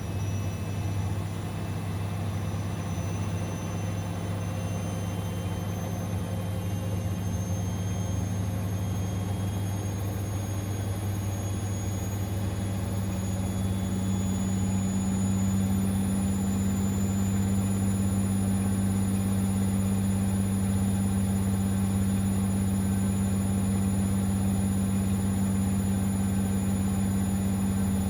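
Siemens Extraklasse XLS 140 A washing machine running with a steady low hum, while a faint high motor whine climbs slowly in pitch. The sound grows a little louder about halfway through.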